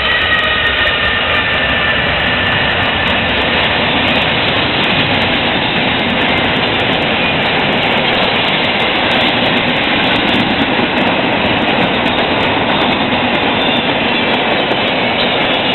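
Double-stack intermodal freight train rolling past at speed: a steady, loud rush of wheel and rail noise from the container well cars. In the first second a few tones fall in pitch as the last locomotive goes by.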